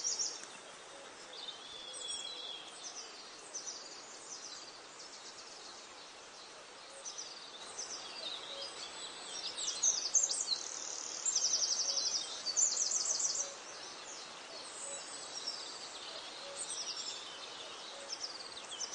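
Several wild birds chirping and trilling together, overlapping short calls and rapid trills, busiest and loudest a little past the middle. A faint low note repeats about once a second beneath them.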